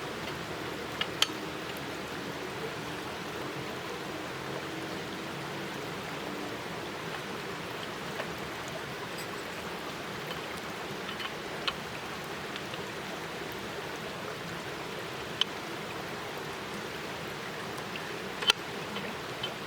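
Hamburger patties sizzling on an iron griddle over a wood fire, a steady frying hiss with sharp pops now and then.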